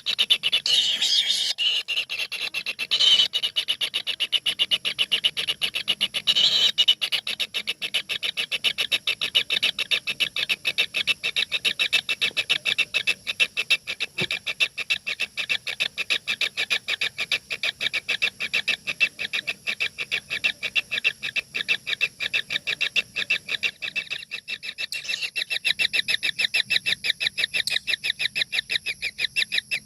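A brood of four nestling birds calling from inside their nest hole: a rapid, unbroken run of short repeated calls, several a second, as the chicks beg.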